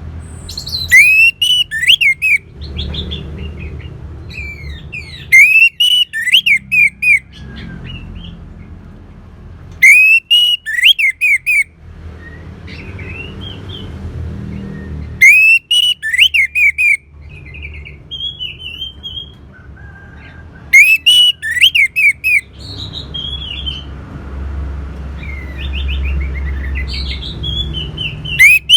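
Orange-headed thrush singing: loud, rapid, varied whistled phrases, each one to two seconds long, repeated about every five seconds, with softer short notes and a low background rumble in the gaps. This is lure song meant to set other anis merah singing.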